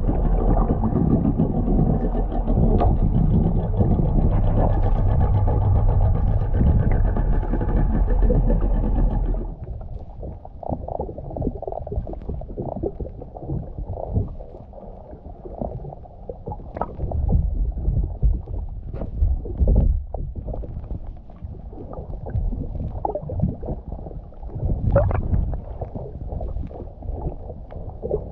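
A boat motor running steadily, cut off abruptly about nine seconds in. Irregular knocks and low sloshing follow.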